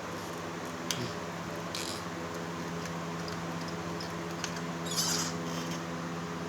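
Steady low hum with a few light clicks and a brief rustle about five seconds in.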